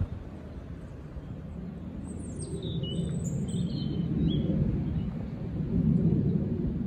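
A small bird chirps a short run of high calls between about two and four seconds in, over a low rumbling background noise that grows louder toward the end.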